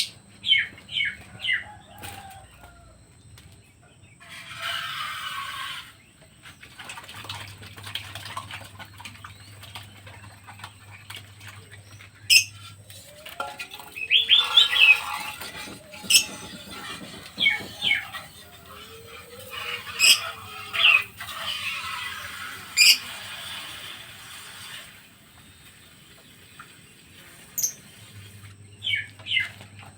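Pet birds giving short, sharp high chirps in small quick clusters, with several stretches of wing flapping and rustling between them.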